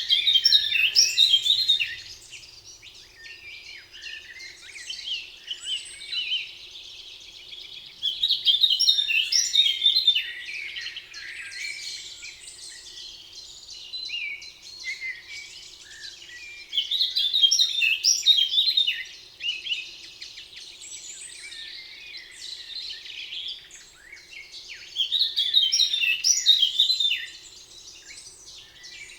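Spring forest birdsong. A loud, rapid song phrase about two seconds long repeats four times, about eight seconds apart, over quieter chirping from other birds.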